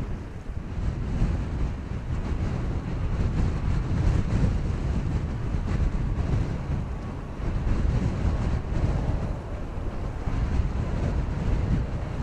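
Wind buffeting the microphone outdoors, a gusty low rumble that swells and eases without any clear engine tone.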